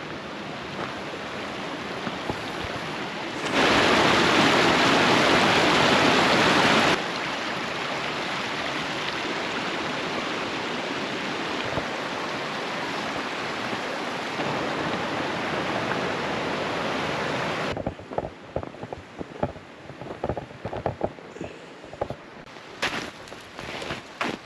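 Steady rush of fast-flowing mountain water. It turns much louder for a few seconds early on, with abrupt changes in level, then gives way in the last few seconds to irregular footsteps on a trail.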